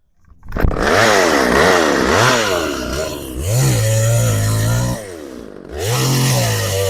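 Old Craftsman 2.3 chainsaw's two-stroke engine, being tested after an idle adjustment, starts running about half a second in and is revved up and down several times. It then holds a steady speed, drops back briefly near five seconds and picks up again.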